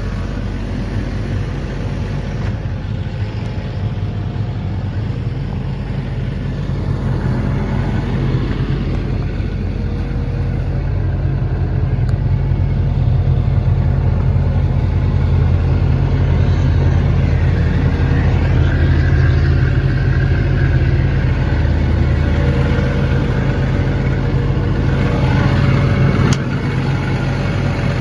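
Cummins diesel engine of an XCMG excavator idling steadily with a deep, even hum that grows gradually louder through the middle. A single sharp click near the end is followed by a sudden drop in loudness.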